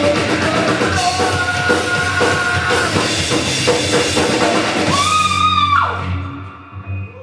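Live rock band playing loud, with drum kit, electric guitar and shouted vocals. The song ends on a final held note about six seconds in and dies away.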